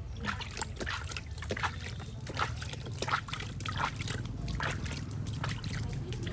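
Bath water splashing and trickling in many quick, irregular splashes.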